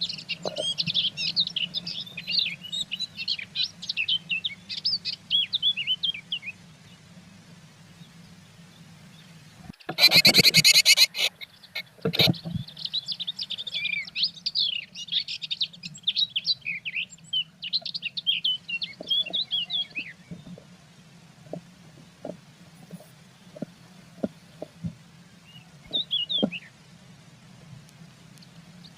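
Blue tits in an occupied nest box during incubation, calling in quick bursts of high chirps and twittering. About ten seconds in there is a brief, very loud rustling burst, and faint taps follow later, over a steady low hum.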